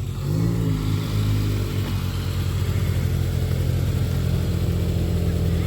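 Car engine and exhaust running. The note is fuller for the first couple of seconds, then settles to a steady low idle rumble. It is a pretty aggressive exhaust sound.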